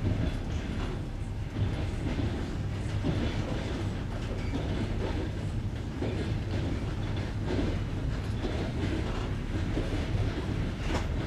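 Passenger coach running over jointed rail, its wheels knocking at the rail joints over a steady rolling rumble.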